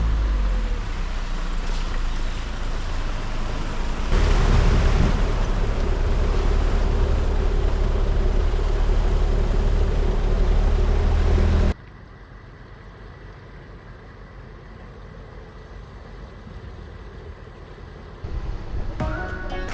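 4WD vehicle driving through a large flooded mud puddle, the engine running with water and mud splashing, louder from about four seconds in. At about twelve seconds it cuts off abruptly to a much quieter background.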